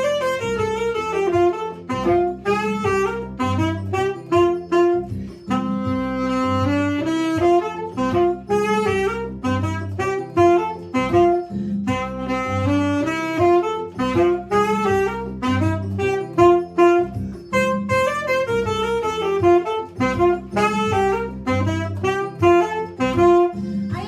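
Alto-type saxophone playing a bouncy, jazzy tune live over a backing track with a steady bass line and beat.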